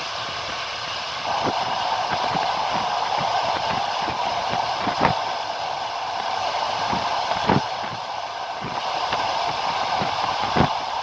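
Train running along the track, its wheels knocking sharply over rail joints three times, about two and a half to three seconds apart, over a steady running rumble. A steady hum sets in about a second in.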